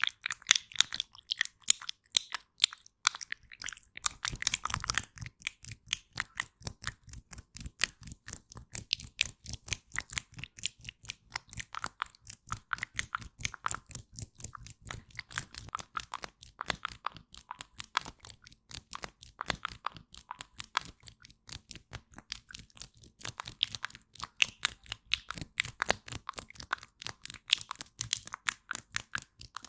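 Aloe vera gel being wiped and smeared for ASMR, making a steady, dense run of quick crackling clicks.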